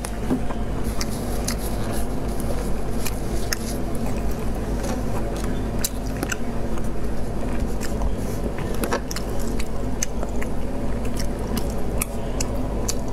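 A person chewing food close to the microphone, with many small sharp mouth clicks scattered throughout, over a steady low hum.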